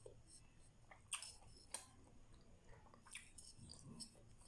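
A person chewing grilled isaw and barbecue with the mouth closed: faint, wet chewing, with a few sharp lip-smacks about a second in, just before two seconds and again past three seconds.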